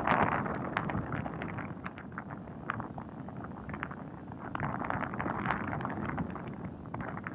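Wind buffeting the microphone, strongest at the start and easing after about a second, with irregular crackles and ticks scattered throughout.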